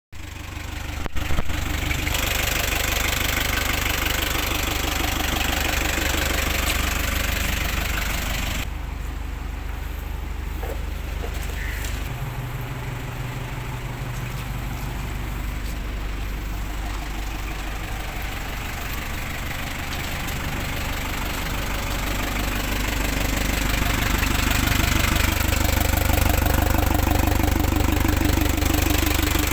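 Hino 300 Series truck's diesel engine running at idle. Its sound shifts in character about nine and twelve seconds in, and it grows louder over the last several seconds.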